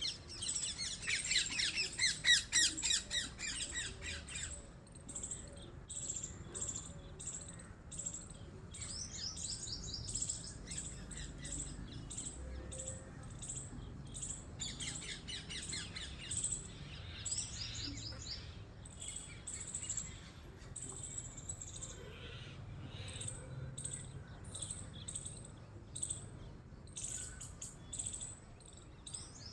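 High-pitched bird chirping: rapid trills and sharp short calls, loudest in a dense burst over the first four seconds and returning in shorter runs a few times after.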